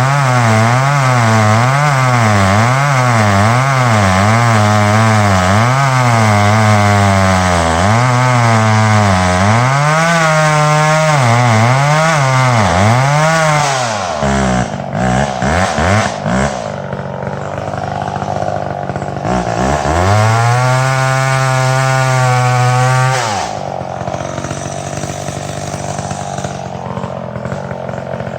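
Two-stroke chainsaw cutting through a dead ash tree, its engine pitch rising and falling about once a second as the chain bites and frees up. About halfway through it drops back, revs up steadily for a few seconds, then settles to a lower idle near the end.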